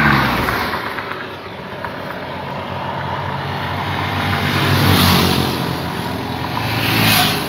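Motorcycle tricycle engine running while riding, its note rising and easing off a couple of times as it speeds up, with road noise.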